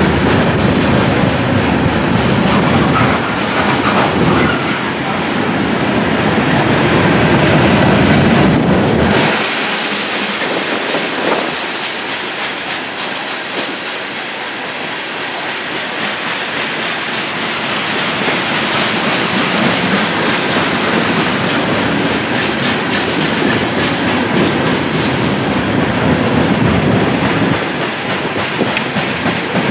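Freight train of covered grain hopper cars rolling past at track side: a steady loud roll of steel wheels on rail with clickety-clack over the rail joints. The deep low rumble drops away about nine seconds in while the wheel and rail noise carries on.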